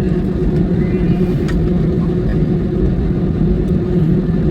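Steady low engine and airflow rumble heard from inside an airplane cabin, even in level with no rise or fall.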